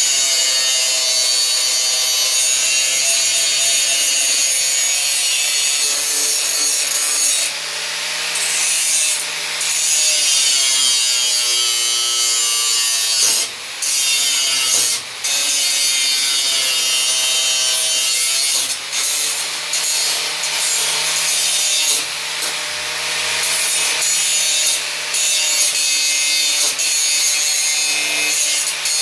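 Angle grinder grinding down a weld on sheet metal: a loud, continuous harsh grinding whose motor pitch sags and recovers under load, easing off briefly several times as the disc lifts off the metal.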